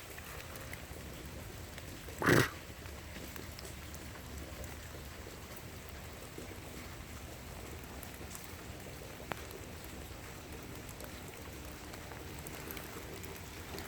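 Steady rain falling on leaves and ground. About two seconds in there is one short, loud, breathy burst of noise.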